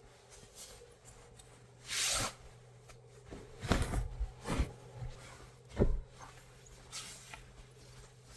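Knocks, bumps and rustling of gear being handled inside a car's cargo area: a short swish about two seconds in, then a cluster of sharp knocks, with the loudest around the middle and a lighter one near the end.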